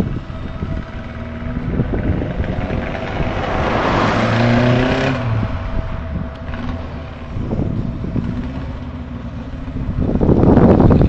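VAZ 2108's tuned 16-valve engine on four individual throttle bodies, revved while standing: a steady run, then a long rise in pitch about four seconds in that cuts off sharply, and a smaller blip a few seconds later. A louder, rougher noise builds in the last second.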